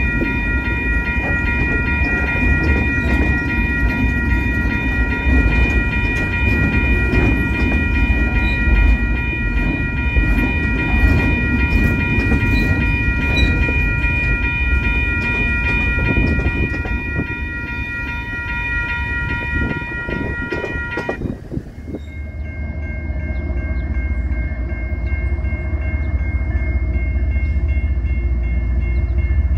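A train passing: a low rumble with scattered clicks of wheels on rail, under a steady high-pitched whine made of several held tones. About two-thirds of the way through, the sound cuts suddenly to a different train recording with a duller rumble and fainter, lower held tones.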